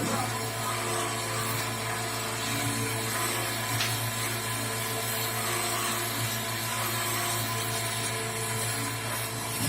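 A machine tool's electric motor running steadily, a constant hum with a few even tones.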